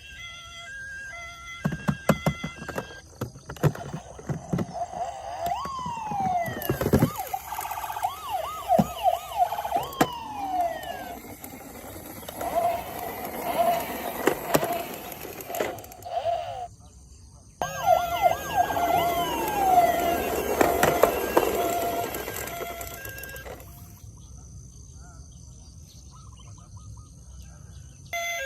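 Electronic toy emergency-vehicle sirens: rising and falling wails and warbling tones. A run of plastic clicks and knocks comes a few seconds in. The sirens break off briefly past the middle and die down near the end.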